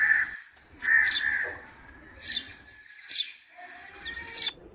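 Birds calling: two harsh, drawn-out caws near the start, with short, high, sharp calls repeating about once a second.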